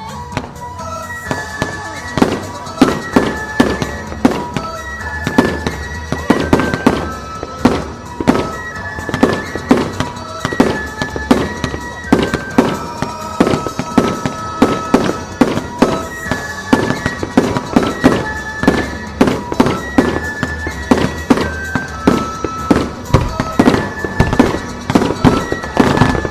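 A rapid barrage of firework shells bursting, several bangs a second, starting about a second and a half in. A melody of pitched music plays underneath the bursts.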